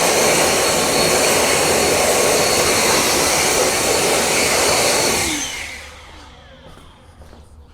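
A high-speed electric fan motor, such as a car-drying blower or a vacuum, running at full speed with a steady whine over a rush of air. About five seconds in it is switched off and winds down, its whine falling in pitch as it fades.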